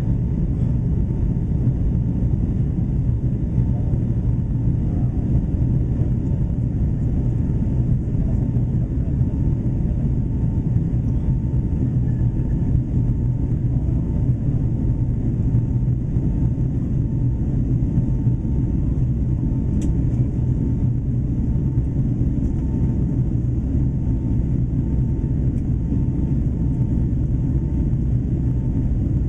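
Boeing 757-300 jet engines running with a steady low rumble and an even hum, unchanging throughout.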